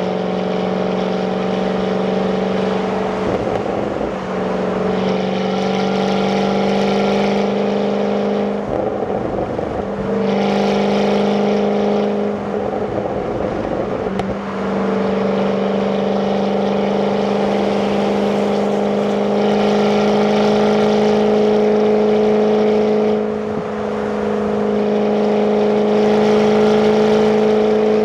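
Jaguar F-Type's supercharged 5.0 V8 on its stock exhaust, driving at a steady, even pitch. The hum breaks briefly several times and a hiss comes and goes over it.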